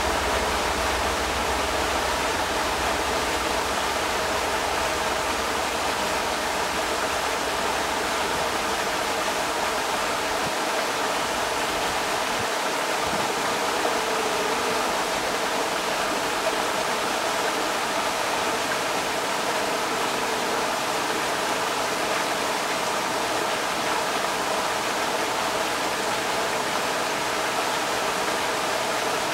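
Creek water rushing steadily, an even full hiss. A low rumble underneath drops away about ten seconds in.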